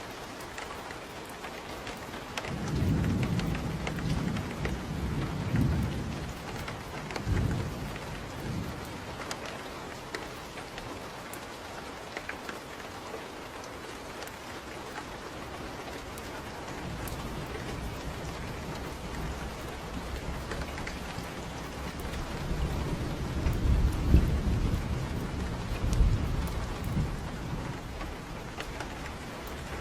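Steady rain on a porch roof and surfaces, with low rolls of thunder: one a few seconds in that rumbles on for several seconds, and a longer, louder one in the second half.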